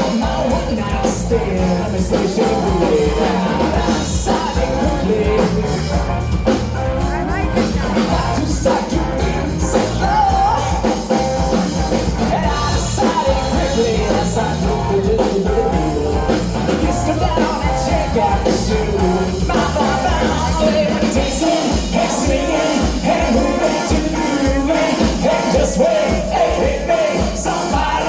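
Rock band playing a song, with a lead voice singing over guitars, bass and drums.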